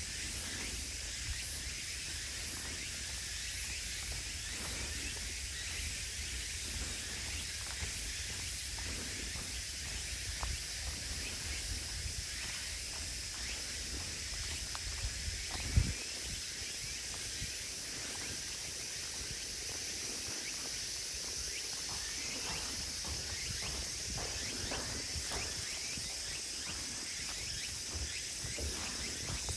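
Steady high shrill of a woodland insect chorus, with a low rumble underneath and one sharp thump about halfway through.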